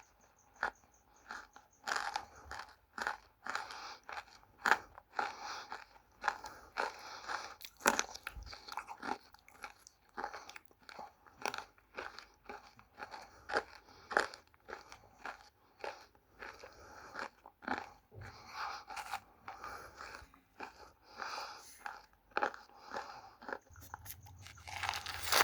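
Close-up crunching and chewing of dry multani mitti (fuller's earth) and red clay pieces: sharp, irregular bites, about one or two a second, with crackly chewing between.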